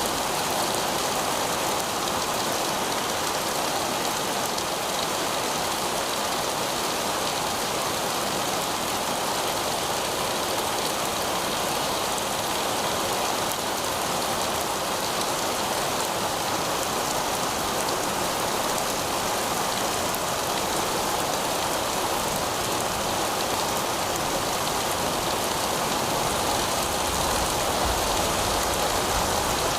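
Heavy rain falling steadily on pavement, an even, unbroken hiss of drops.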